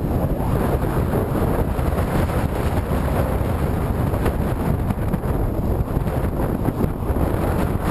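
Strong headwind buffeting the microphone of a moving camera: a loud, steady rush of noise, heaviest in the low end, with no letup.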